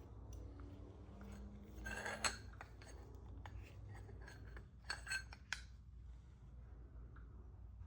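Light metal-on-metal clinks: one about two seconds in and a quick cluster of three around five seconds, each with a brief high ring, over a low steady hum.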